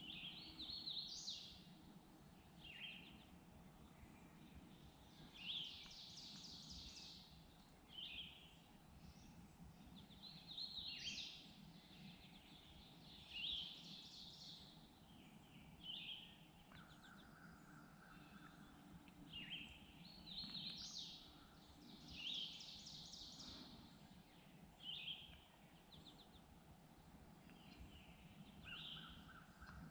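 Songbirds singing, faint short phrases repeating every second or two, over a faint low rumble of background noise.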